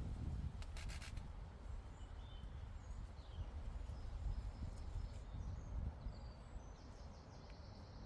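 Meadow ambience: a low, fluctuating rumble of breeze with short bird chirps scattered throughout. A few soft clicks about a second in.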